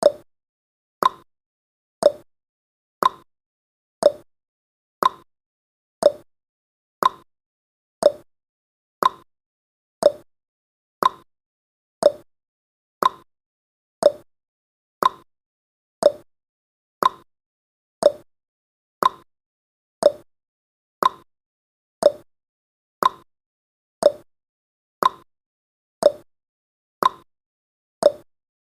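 Clock-style ticking sound effect of a countdown timer: one short, sharp tick every second, evenly spaced, about thirty ticks in all, marking off the seconds.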